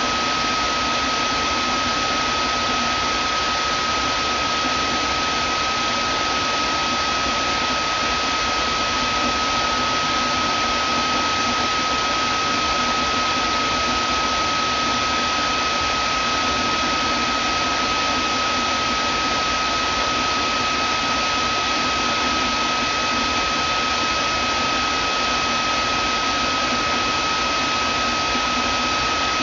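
Vacuum cleaner running steadily, a constant rushing noise with a thin whine over it.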